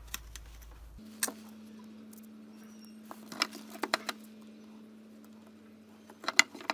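Sharp clicks and light knocks of tools and parts being handled on a workbench, coming in small clusters, as a component is worked loose from an electronics board. A faint steady hum starts about a second in.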